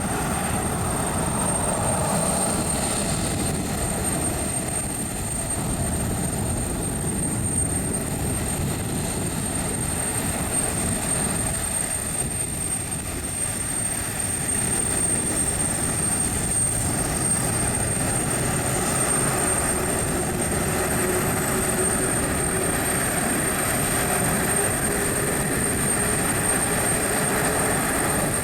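Airliner jet engines running steadily, an even roar with a thin high whine over it.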